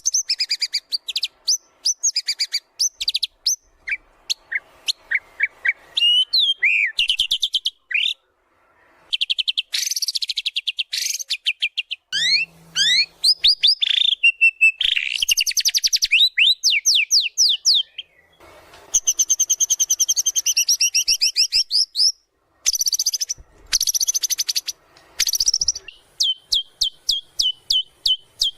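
White-rumped shama (murai batu) in full song, running through its repertoire of mimicked phrases: fast trills, sweeping whistles and chattering runs in quick bursts separated by short pauses. Near the end comes a long string of rapid, evenly repeated notes.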